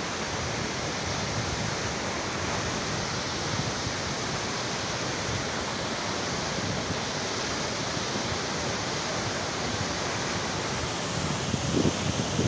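Waterfall: a steady, even rush of falling water, with a few louder low rumbles near the end.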